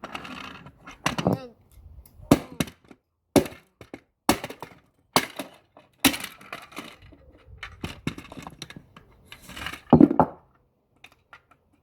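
Hammer blows on a plastic toy truck, about one a second, each a sharp knock with cracking plastic. The loudest blow comes near the end.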